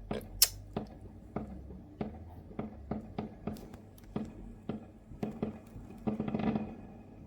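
Fireworks going off: scattered sharp cracks and pops at irregular intervals, with a short rapid crackling flurry about six seconds in.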